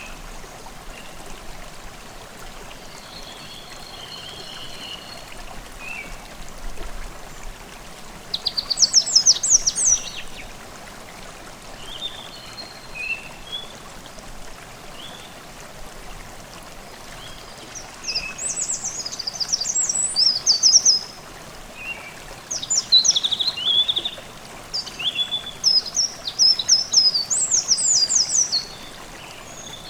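A forest stream babbling steadily under songbirds singing, with loud phrases of rapid high notes coming several times, the longest near the end.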